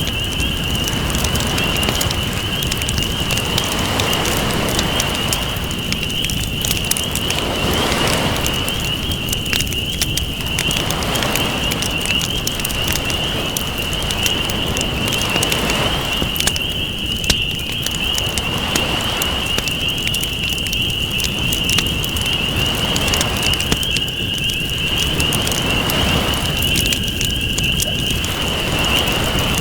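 Campfire crackling and popping over ocean waves that swell and fall back every few seconds, with a steady high-pitched drone underneath.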